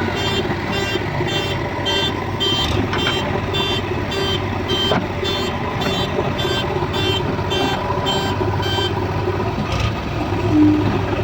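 Reversing alarm of a JCB 3DX backhoe loader beeping about twice a second over its running diesel engine; the beeping stops about nine seconds in while the engine keeps running.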